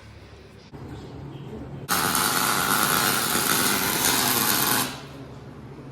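Electric arc welder laying a bead on a gearbox bearing race, so the race shrinks and can be knocked out: a loud, steady welding noise for about three seconds that starts and stops abruptly. A lower hum runs underneath from about a second in.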